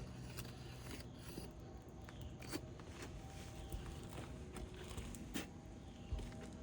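Faint scattered clicks and scratchy scrapes of hands and tools working on asphalt roof shingles, over a low steady hum.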